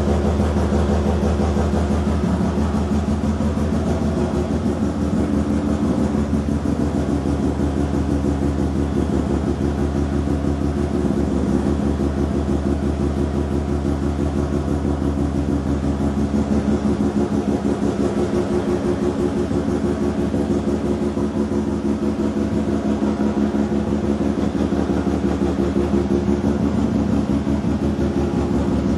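Mazda RX-7 FB's twin-rotor Wankel engine idling through a large stainless steel exhaust, a steady choppy rotary "brap". Its idle speed shifts slightly a couple of times.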